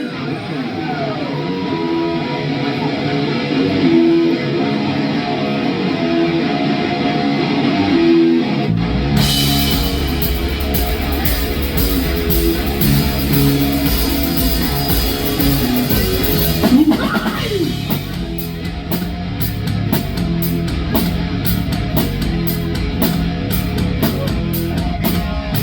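Live rock band playing a song intro with guitar alone for about nine seconds, then the full band with bass and drum kit comes in.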